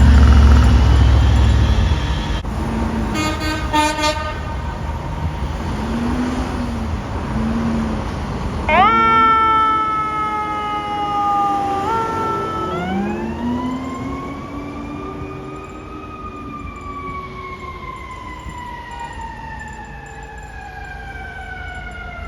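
2010 Seagrave Marauder II fire engine's diesel rumbling as it pulls out, then its siren: a few short rising sweeps, followed by one long wail that rises and slowly falls, fading as the truck drives away on an emergency response.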